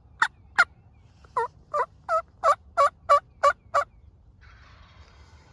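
Turkey yelps, loud and close: three sharp notes, a short pause, then a steady run of eight at about three a second.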